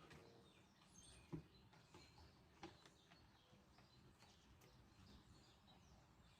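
Faint birdsong, many small high chirps and calls over a quiet outdoor background, with two brief knocks about a second and a half apart.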